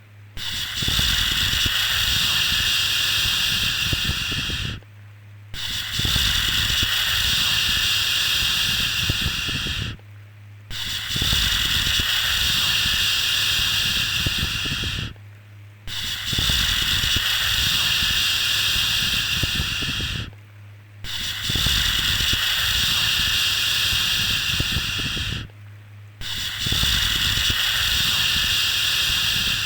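A long, drawn-out 'shhh' shushing sound for lulling a baby to sleep, repeated about every five seconds: each shush lasts about four and a half seconds, with a brief pause before the next.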